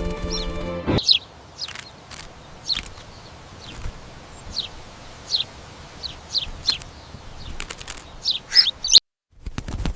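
Background music stops about a second in; then a small bird gives a series of short, high, downward-sliding chirps, roughly one every half second to second, over a faint hiss. The sound cuts off abruptly near the end.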